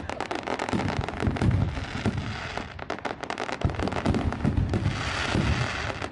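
Fireworks display going off: a dense stream of sharp cracks and crackling, with clusters of deep booms from the shells bursting overhead and a brief lull in the middle.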